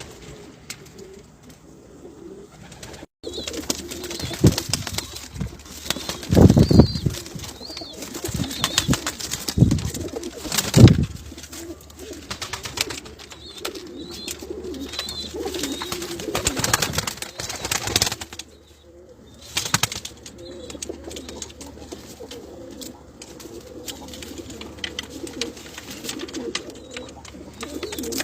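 Homing pigeons cooing over and over. Several loud, dull thumps and rustles come between about a quarter and two fifths of the way in.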